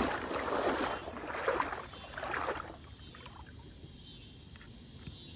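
Water splashing and sloshing in irregular swishes for about the first two and a half seconds, like someone wading through a shallow creek, then fading out, leaving a steady high drone of insects.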